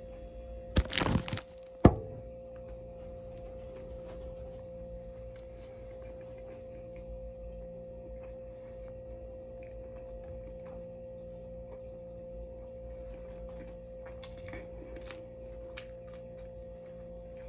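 A short, loud crackle about a second in, then a sharp click just after, over a steady high hum; faint clicks later on.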